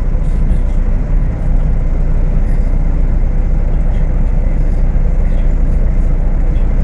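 Diesel engine of a Volksbus 18.280 OTS city bus running steadily while under way, heard on board, with a brief dip in level a little over a second in.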